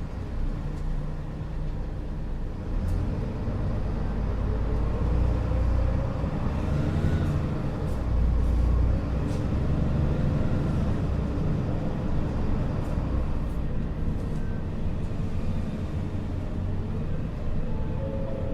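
Engine and road rumble of a city bus heard from inside the cabin as it pulls away from a stop and gathers speed, the engine note swelling and rising slightly partway through. A few faint clicks and rattles sound now and then.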